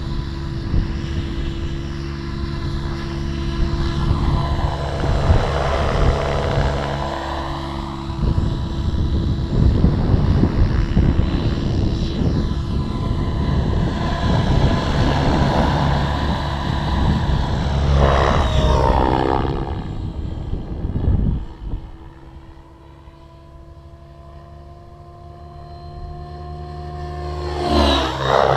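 Align T-Rex 700 Pro RC helicopter flying, its rotor and drivetrain whine steady under gusty wind rumble on the microphone. About two-thirds of the way through it sweeps past with its pitch dropping, then grows faint as it flies off. Near the end it comes back louder, its pitch sliding as it passes again.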